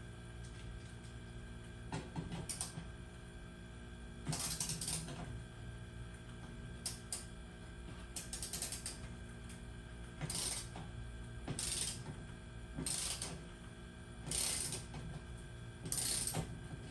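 Ratcheting mechanical clicks in short bursts, about one every second and a half, typical of a hand ratchet being worked in strokes while tightening hardware. A steady hum runs underneath.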